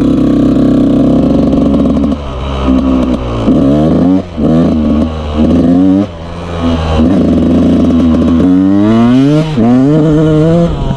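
Yamaha YZ125 two-stroke dirt bike engine revving under way, its pitch climbing and dropping again and again with throttle and gear changes, with brief drops off the throttle about four and six seconds in and a long climb near the end.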